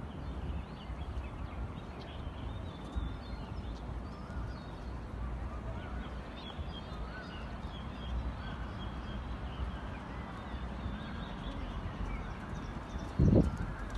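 Small birds chirping over and over above a low steady rumble, with one loud thump near the end.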